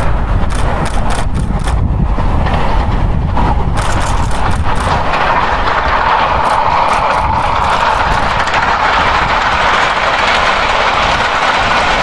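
Steam train running by: a loud, steady noise with irregular clattering in the first half.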